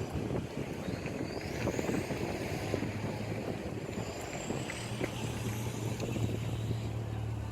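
A steady low engine hum, stronger from about a third of the way in, with wind rumbling on the microphone.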